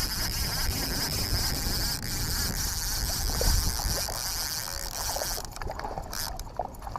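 Wind buffeting the camera microphone as a low rumble, with a faint steady high whine that stops a little over five seconds in and a few light ticks.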